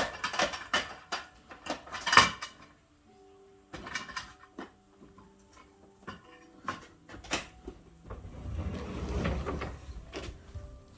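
Plastic toy garbage trucks and parts being handled: a run of clicks and knocks, the loudest just after two seconds in, then a few scattered clicks, and a low rumbling noise from about eight seconds in.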